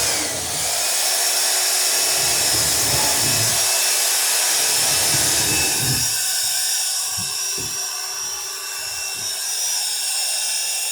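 Electric drill running steadily, boring rivet holes through the clamped, overlapping wooden planks of a boat hull: the sheer strake and the plank below it.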